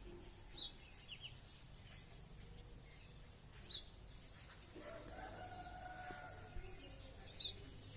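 Faint outdoor ambience: a steady, pulsing, high-pitched insect drone, a bird giving a short high chirp three times about three seconds apart, and a longer, lower call from about five seconds in that lasts a little over a second.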